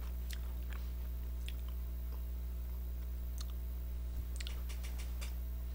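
Faint chewing and crunching of a chocolate-coated Pepero biscuit stick, a scattering of soft irregular clicks, over a steady low electrical hum.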